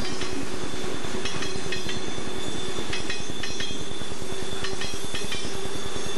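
Freight cars rolling past: steel wheels clicking in pairs as each car's trucks cross rail joints, over a steady rumble. A thin, steady high squeal of wheel flanges on the curving rail runs beneath it.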